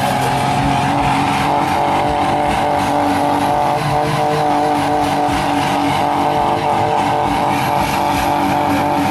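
Loud vehicle engine running at steady, held revs, its pitch barely changing.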